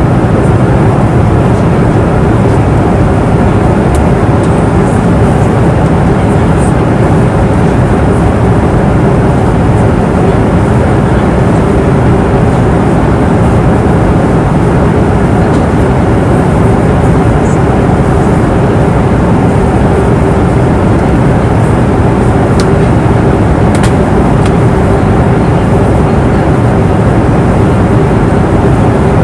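Steady airliner cabin noise in flight: an even rumble and rush of engines and airflow, with a faint steady hum running through it. A few faint ticks come about three-quarters of the way through.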